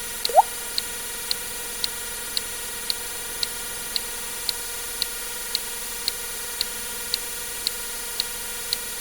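A single water-drip sound effect, a short plink rising in pitch, about half a second in. Throughout, short clicks about twice a second over a steady hiss.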